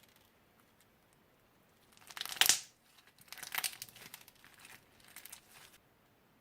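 Crinkling and crackling as slime-making materials are handled: one loud crackle about two seconds in, then a longer run of softer crinkly rustling that stops near the end.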